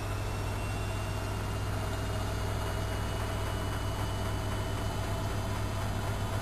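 Studio WM26AAA washing machine running with a steady low hum. A faint high whine rises slightly in pitch over the first few seconds, then holds steady.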